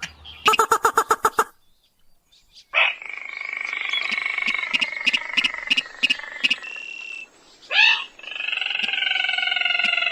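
Lure recording of rail and crake calls. A quick run of rapid pulsed notes, then after a pause a long held whistle-like call with sharp clicks about three times a second over it. Near the end a short rising note leads into another held call of several tones, the clicks still going.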